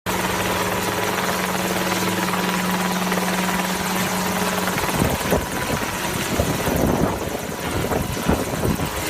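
Loud aircraft noise: a steady rushing sound with a low engine hum that stops a little past halfway, followed by irregular low buffeting.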